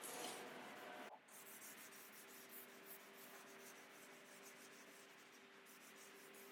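Faint rubbing of a cloth on wood, as oil finish is wiped onto walnut, over a low steady hum. The level drops suddenly about a second in.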